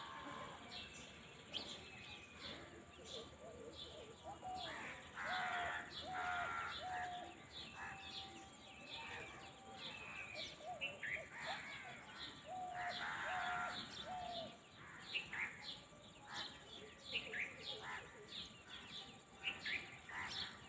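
Several wild birds calling in the open: many short chirps throughout, with louder, harsher calls about five to seven seconds in and again around thirteen seconds.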